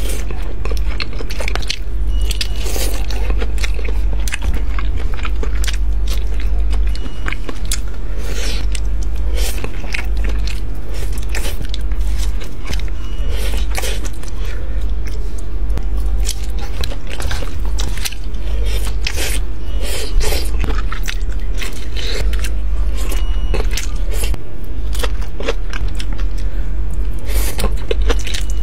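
Close-up eating sounds: biting and chewing, with frequent short clicks and scrapes, as of utensils on a dish, over a steady low hum.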